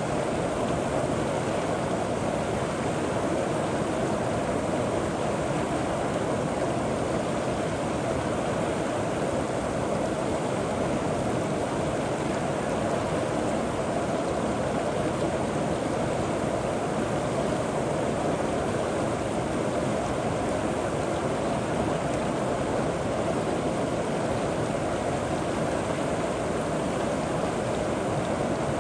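River water flowing over rocks and pebbles with a steady, even rush and gurgle.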